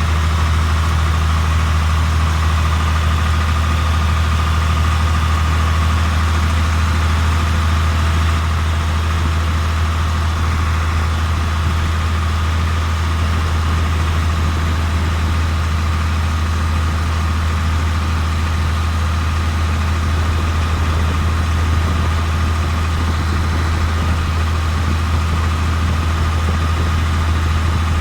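Tractor engine running steadily: an even low drone with a faint steady whine above it, holding the same pitch and loudness throughout.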